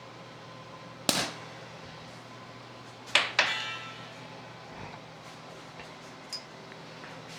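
Sharp metal-on-metal clanks of tools or shock parts being struck or set down: one about a second in, then two close together about three seconds in, the second ringing briefly. A steady low hum runs underneath.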